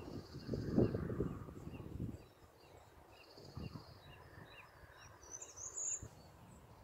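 Low thumps in the first two seconds, then small birds chirping faintly in a steady run of short chirps, about two a second, with a higher call near the end.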